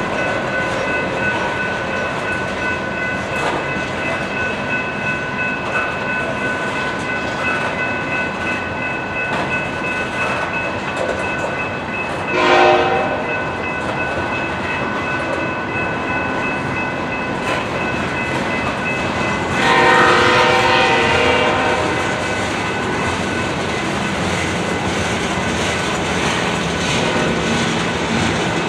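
Coal train of hopper cars rolling past, its wheels clattering steadily over the rails, with steady high ringing tones through the first half. A short horn blast from the distant locomotive about halfway through, then a longer, louder blast a few seconds later.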